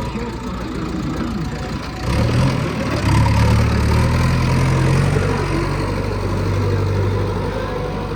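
Heavy diesel engine of earth-moving machinery running, rising in load and loudness about two seconds in and again a second later, then holding steady.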